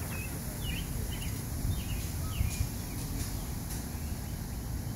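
Small birds chirping, short high calls repeated about every half second for the first few seconds, over a steady low rumble.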